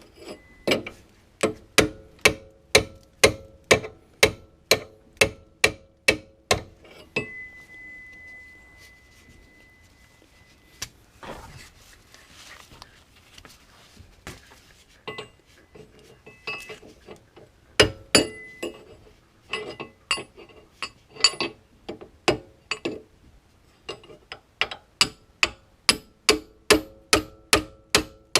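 Hammer striking metal in steady runs of about two blows a second, each blow ringing. There is a quieter pause of several seconds in the middle.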